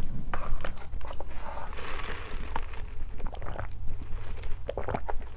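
Close-miked eating sounds: chewing and crunching, with scattered small sharp clicks.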